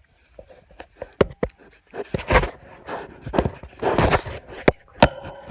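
Pigs rooting: breathy, noisy snuffles coming every second or so, mixed with several sharp clicks.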